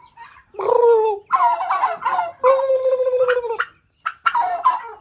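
Tom turkey gobbling: three long calls in quick succession, then a few shorter calls near the end.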